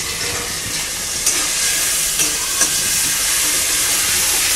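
Mustard paste frying in hot oil in a kadhai, with a steady sizzle and a few light clicks of the spatula and lid against the pan.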